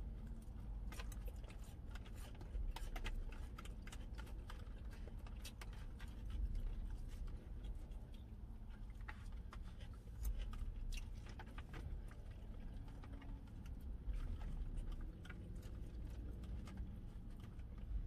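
Chewing of salad, with plastic forks clicking and scraping in clear plastic salad containers: many scattered sharp ticks over a steady low hum.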